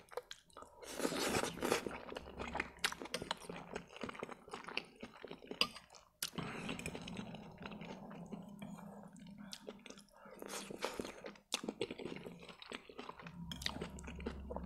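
Close-miked chewing of spaghetti in sauce mixed with bites of a salted pickled cucumber: wet, irregular crunching and mouth clicks, loudest about a second in.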